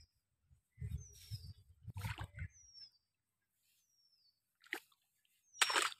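A bird repeats a short, falling high whistle about every second and a half, over handling and rustling from a bundle of uprooted rice seedlings. The loudest sound is a short sharp burst of noise near the end.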